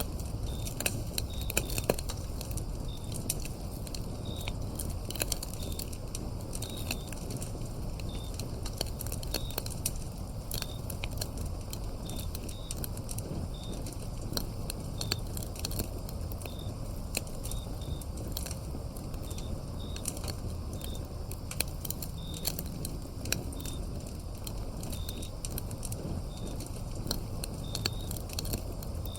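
Wood fire crackling, with frequent sharp pops and snaps over a low rumble of burning. Crickets or other grass insects chirp throughout in short, high, irregular chirps.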